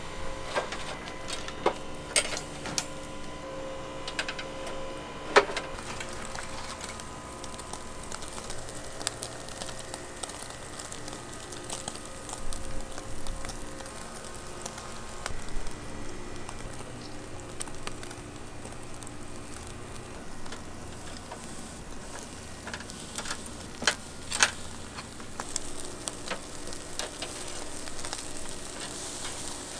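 Meat sizzling over an oak charcoal fire, a steady crackling hiss broken by sharp clicks and clacks, loudest about five seconds in and again around twenty-four seconds.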